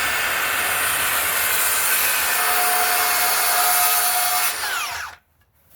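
Electric power saw cutting through a wooden board, running steadily for about four seconds, then the blade winding down in falling pitch after the trigger is released.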